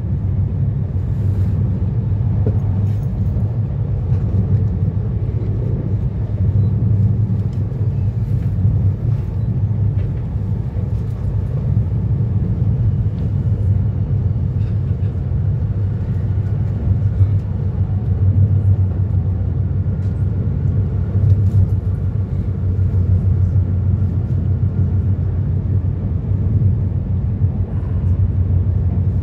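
Steady low rumble of an E2 series Shinkansen running, heard from inside the passenger cabin, with a few faint ticks over it.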